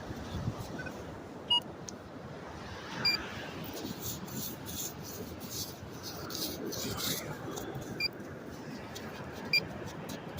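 Beach metal detector giving a short beep every second or two as its coil sweeps over a buried coin target, over a steady background hiss. A crunching rustle comes between about four and seven seconds in.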